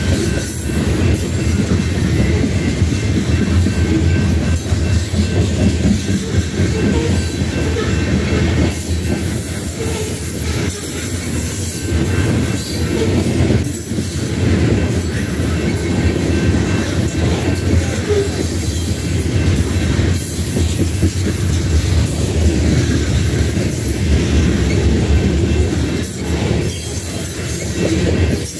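A freight train of covered hopper cars rolling past at a grade crossing: a steady, loud low rumble of steel wheels on the rails.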